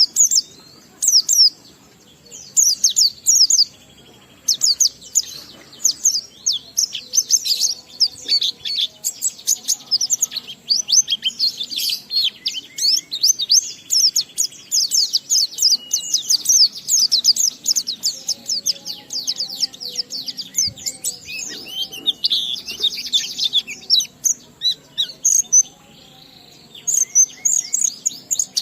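White-eye (pleci) singing its long 'ngalas' song: rapid, high chirps and trills strung into long runs with only short breaks. It is a recording of the kind played to spur other white-eyes to sing.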